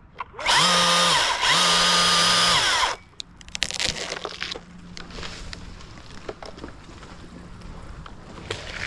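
Chainsaw revved to full throttle twice in quick succession, each burst about a second long, rising in pitch and falling back as the throttle is released. Afterwards comes a quieter run of irregular crackles and snaps.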